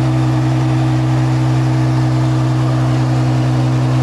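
Twin-turbo Ferrari F12's V12 engine idling steadily at an even, unchanging pitch, left running to cool down before being switched off.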